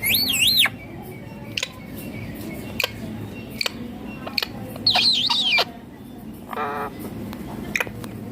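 Indian ringneck parakeet giving two loud, shrill warbling calls, one at the start and one about five seconds in, with sharp ticks in between.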